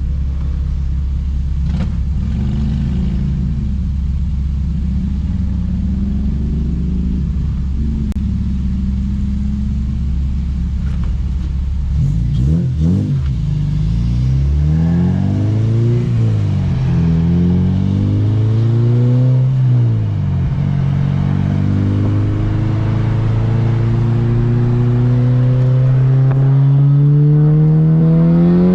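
2007 Honda Civic Si's 2.0-litre four-cylinder engine running steadily at low revs for about twelve seconds. It then accelerates hard, revs climbing and dropping several times, and finishes with one long pull, revs rising steadily through a gear.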